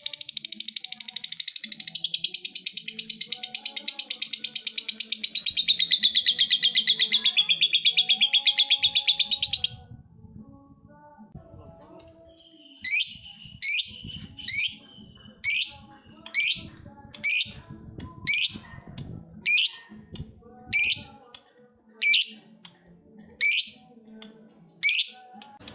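Lovebird's long 'ngekek' chatter: a loud, very rapid, high trill that stops about ten seconds in. After a short pause, a series of sharp rising chirps follows, roughly one a second.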